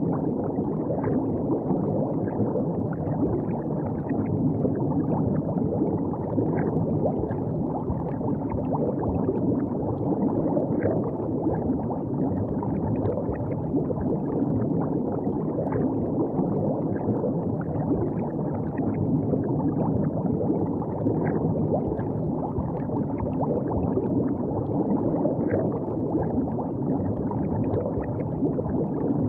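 River water gurgling and lapping at the bank: a steady low wash with small, frequent splashes.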